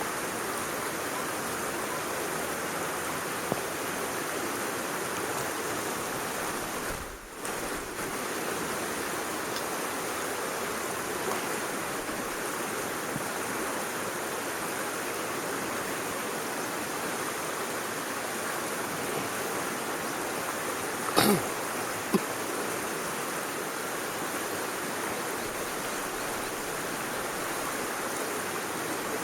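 Steady rushing of a flowing stream, with two short sharp cracks about 21 and 22 seconds in.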